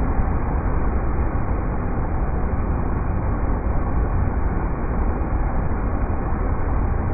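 River rapids rushing in a steady, deep, unbroken stream of noise, with no change in level.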